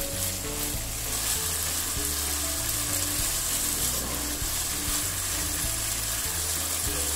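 Keema and green capsicum sizzling steadily as they are stir-fried over high heat in a non-stick pan, a spatula turning them through.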